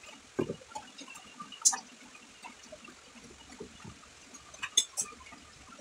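Close, quiet chewing and wet mouth noises of someone eating grilled fish, with a few sharp clicks, the loudest about two seconds in and twice near the end.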